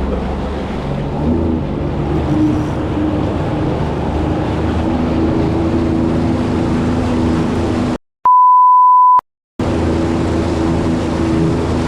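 Jet ski engine running steadily with wind and water noise. About eight seconds in, the sound cuts out and a steady 1 kHz censor bleep sounds for about a second before the engine noise returns.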